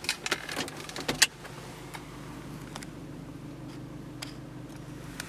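Opel Zafira B engine idling steadily, heard from inside the cabin. A few sharp clicks and knocks come in the first second or so, the loudest just after one second in.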